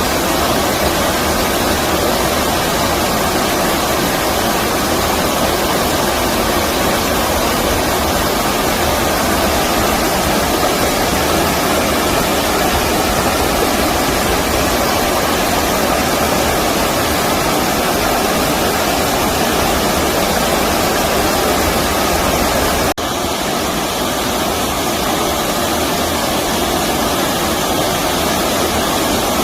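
Steady rush of flowing stream water. About three quarters of the way through there is a brief break, after which it runs slightly quieter.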